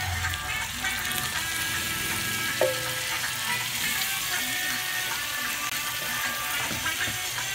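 Marinated pork pieces sizzling in hot oil as they go into the frying pan, under upbeat reggae background music. A single clink with a short ring comes about two and a half seconds in.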